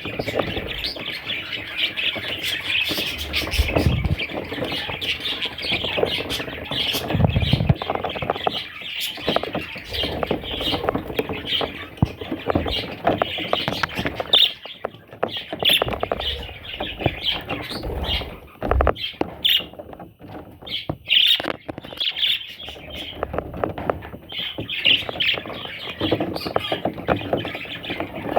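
Pet budgerigars chattering: a dense, continuous warble of chirps and squawks, with a few low thuds in between.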